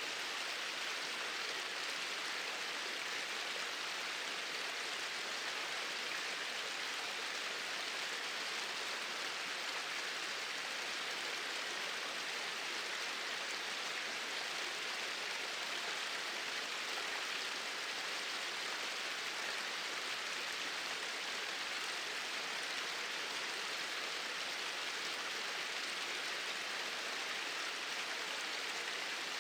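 Small waterfall pouring steadily, a constant even rush of falling water without breaks.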